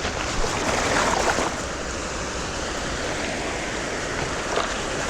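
Shallow ocean water washing and splashing around in small surf, with a louder splash about a second in.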